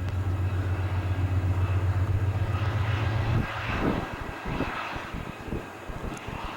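GE diesel passenger locomotives passing, their engines running with a steady low drone that drops away suddenly about three and a half seconds in. The drone gives way to a rushing sound with irregular knocks as the train rolls by.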